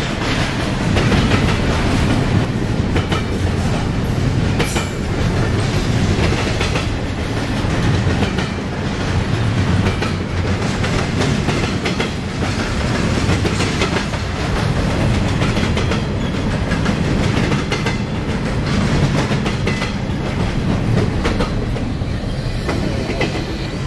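Double-stack intermodal container freight cars rolling past close by: a steady rumble of the train with repeated clickety-clack of steel wheels over rail joints.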